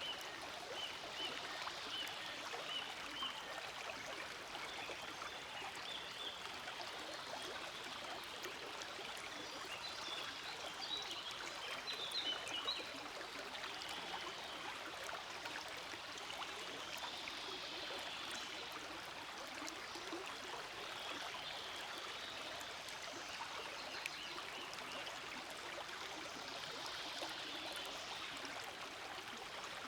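Small forest stream flowing steadily over stones, with a little babbling and splashing that swells briefly about twelve seconds in.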